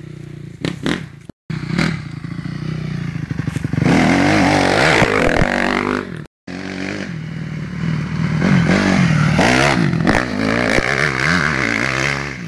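Motocross dirt bike engine revving up and falling back again and again as the rider accelerates out of and shuts off into tight corners.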